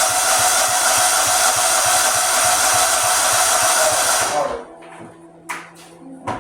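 Old lawnmower engine being cranked by its electric starter, chugging with a steady, even beat without catching, then stopping about four seconds in; the engine turns over but will not start.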